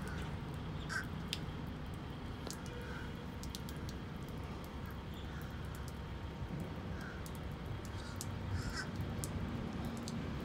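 Birds calling a few times with short calls, over a steady low machine hum.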